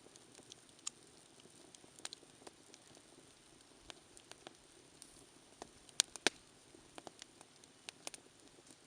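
Wood campfire crackling: scattered sharp pops over a faint steady hiss, the loudest two close together about six seconds in.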